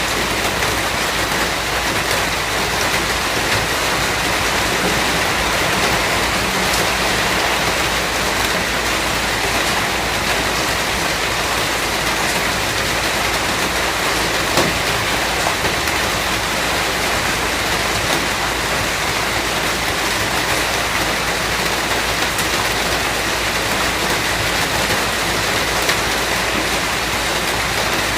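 Steady rain falling, an even hiss of many drops with faint scattered patters on a hard surface.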